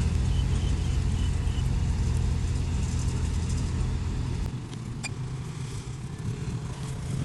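Diesel engine of a heavy earthmoving machine running steadily with a low hum, dropping to a quieter, lower level about four and a half seconds in. A single sharp click is heard about five seconds in.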